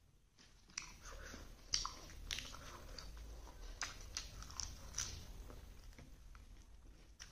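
Close-up eating sounds: a person chewing a mouthful of food, with a run of crisp, irregular crunches starting about a second in.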